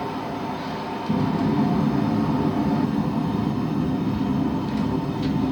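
A forge running with a steady rushing noise, which gets louder about a second in.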